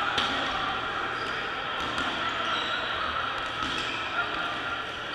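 Dodgeball game: a steady din of players' voices and shouts, with several sharp knocks of balls bouncing off the court and hitting players.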